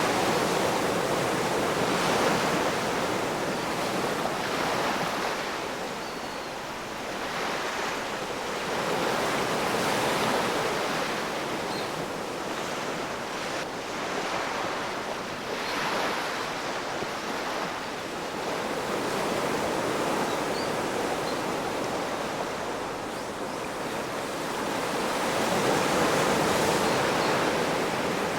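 Ocean waves breaking and washing on the shore, a continuous rush of surf that swells and recedes every few seconds, with louder surges about two, ten, sixteen and twenty-six seconds in.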